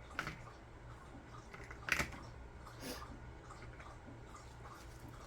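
A few light clicks and knocks of small items being handled and set down on a table, the loudest about two seconds in, over a faint steady hum.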